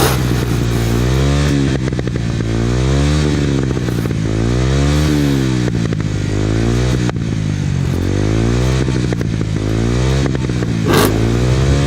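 Yamaha YZF-R125's 125 cc single-cylinder four-stroke engine, fitted with an aftermarket Devil exhaust, revving up and back down over and over, about every two seconds.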